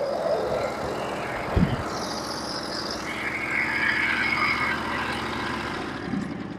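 Sawmill engine idling steadily, with a single low thump about a second and a half in. The engine sound eases off near the end.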